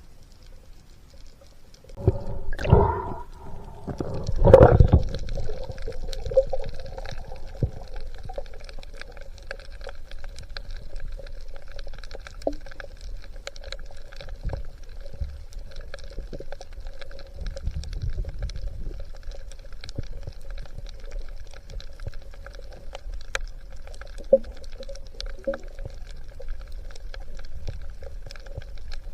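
Underwater sound on a spearfishing dive: two loud gushes of water or bubbles a few seconds in, then a steady hum with scattered faint crackling.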